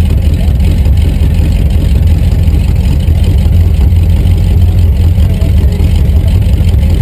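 Rat rod's engine idling, a loud, steady low rumble heard from inside the cab.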